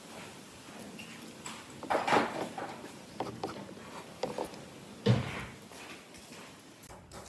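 Workshop handling noises: scattered knocks, clicks and scrapes of wood and tools being moved, with louder knocks about two seconds in and again about five seconds in.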